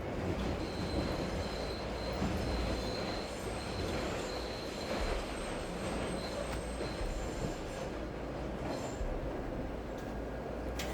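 Train running past on rails, with a high, thin wheel squeal that holds from the start until about two-thirds of the way through, over a dense steady rumble and hiss.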